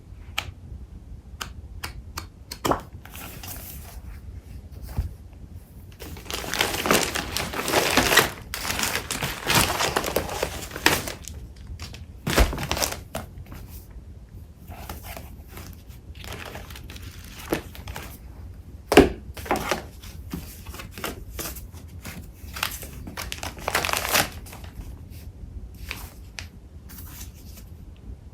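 Paper-crafting supplies being handled and shuffled by hand: irregular paper rustling and crinkling with light taps. There is a longer, louder stretch of crinkling from about 6 to 11 seconds in, and a sharp tap about two-thirds of the way through.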